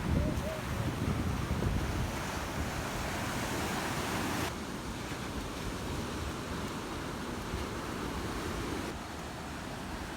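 Sea waves washing on the shore, with wind rumbling on the microphone in the first couple of seconds. The sound shifts abruptly about four and a half seconds in and again near the end.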